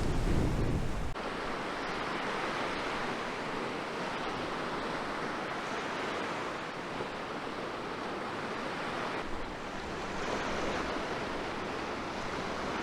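Surf washing onto a sandy beach, a steady rush that swells and eases, with wind buffeting the microphone for about the first second.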